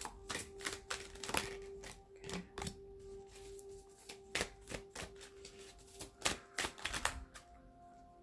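Tarot cards being shuffled by hand: a quick run of sharp card snaps and taps that eases off about three seconds in, picks up again, and stops about seven seconds in. Soft background music with steady held tones plays underneath.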